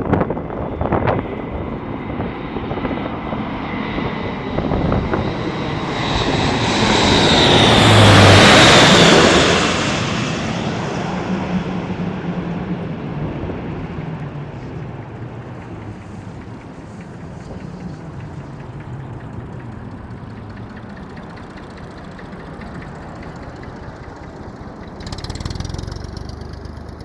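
Airbus A400M Atlas military transport passing by on its four turboprop engines. The propeller drone swells to a loud peak about eight seconds in, then fades, with its pitch dropping as the aircraft moves away.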